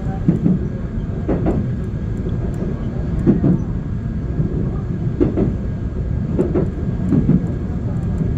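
Seoul subway Line 1 commuter train running at speed, heard from inside the car: a steady low rumble, with the wheels clacking over the track every second or two.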